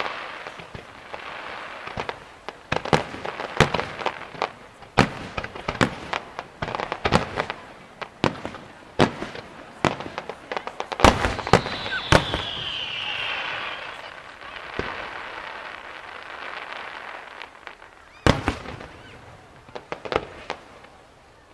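Fireworks display: an irregular, rapid series of shell bursts and bangs over a crackling hiss, with a falling whistle a little past halfway. The firing thins out, then a few more bangs come near the end.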